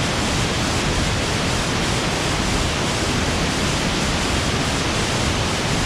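A large waterfall crashing close by, a steady, even rush of falling water and spray.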